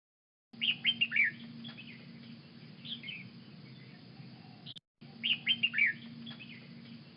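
Birds chirping in quick flurries of short high calls over a faint steady hum. The same snippet plays twice, starting and stopping abruptly.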